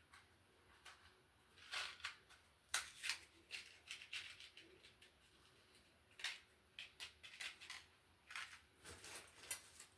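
Scattered small clicks, taps and scrapes of hands working a bare ground wire and a metal electrical handy box, clustered in two spells with a quieter gap in the middle.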